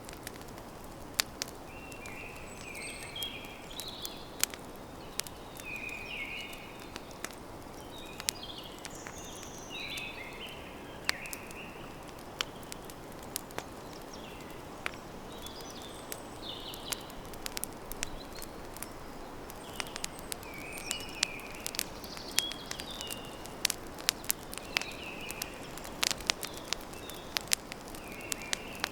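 Campfire crackling with frequent sharp pops over a steady hiss, the pops coming more often in the second half. Birds chirp in short calls every second or two.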